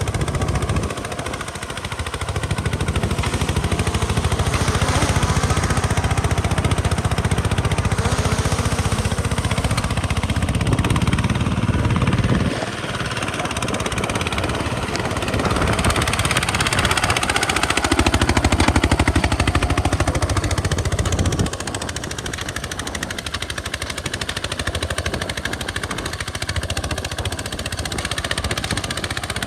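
Single-cylinder diesel engine of a modified walking tractor pulling a plow, running with a rapid, even chugging; its loudness drops and picks up again a few times as the load changes.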